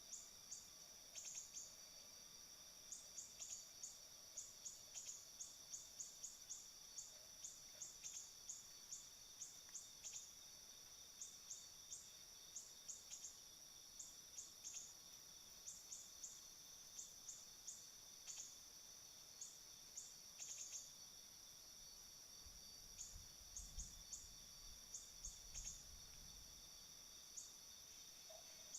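Faint steady high-pitched insect drone, with short high chirps repeating in quick runs throughout. A brief low rumble comes in near the end.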